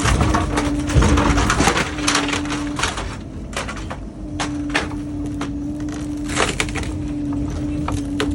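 Excavator at work on demolition: irregular cracking and crunching of material being broken, heaviest in the first few seconds, over the machine's steady hum.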